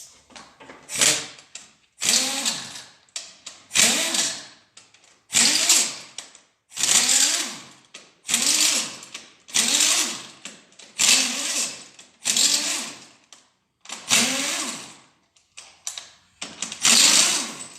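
Cordless power tool spinning out the loosened main bearing cap bolts of a G4NA engine block, in a dozen or so short bursts about every second and a half, each rising then falling in pitch.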